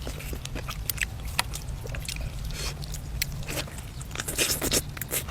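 Close-miked eating: biting and chewing braised duck, heard as many short sharp clicks and crunches, louder and denser about four seconds in, over a low steady hum.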